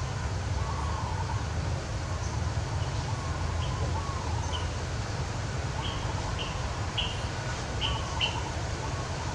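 Birds chirping: a run of short, high chirps starting about three seconds in, with fainter wavering calls lower down, over a steady low outdoor rumble.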